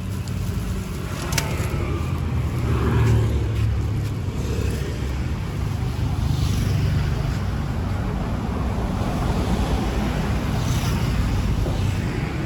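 Street traffic: motorbikes and cars passing with a steady low engine rumble, and a sharp click about a second and a half in.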